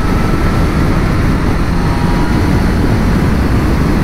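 Steady wind rush and rumble from riding a 2019 Honda CB1000R inline-four naked motorcycle on the road, with the bike's running noise under the wind on the microphone.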